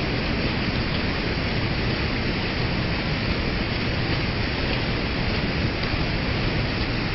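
Steady rushing of river water tumbling over rocks at a waterfall.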